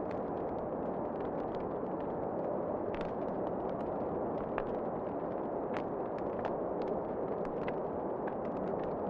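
Wood fire crackling in a fireplace: a steady low rush with irregular sharp pops and snaps scattered through it.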